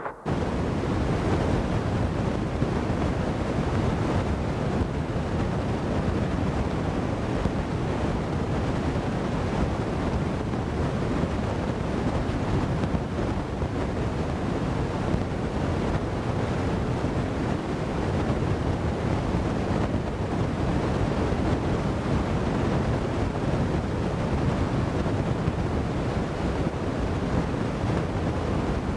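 Steady, loud rushing noise with no clear engine note, typical of wind buffeting a camcorder microphone.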